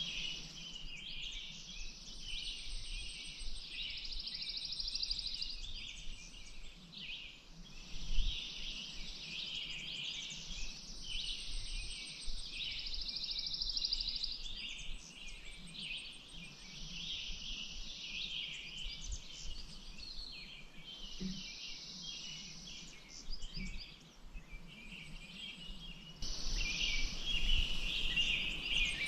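Outdoor bird chorus: many birds chirping at once, with long high buzzing trills that come and go every few seconds. It gets louder a few seconds before the end.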